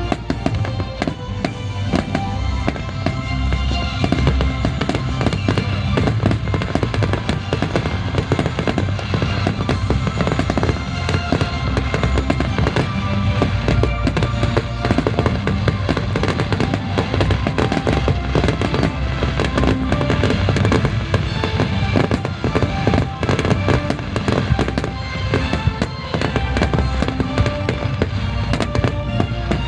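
Daytime fireworks going off in a rapid, continuous stream of bangs and crackles, with music playing underneath.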